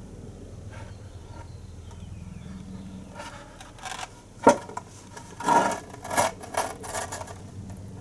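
Workshop handling noises: a low steady hum, then from about three seconds in a run of irregular knocks and scrapes, the sharpest single knock about four and a half seconds in and a cluster of them near the end.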